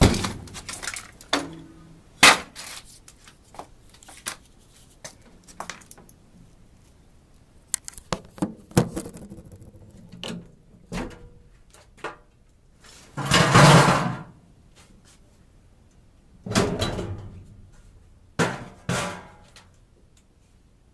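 Scattered knocks, thumps and clicks of someone stepping about and handling things, with several scraping rushes; the loudest, lasting about a second, comes a little past the middle.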